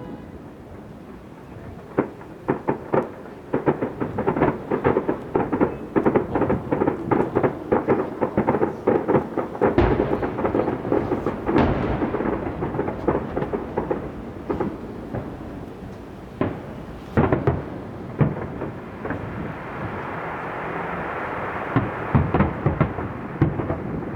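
Fireworks display: a rapid barrage of booms and bangs going off in quick succession, thickest in the middle, then thinning to a steadier hiss with a few more bangs near the end.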